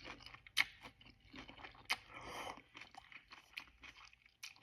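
Close-miked chewing of raw zucchini noodles: a string of irregular, crisp crunches with wet mouth sounds.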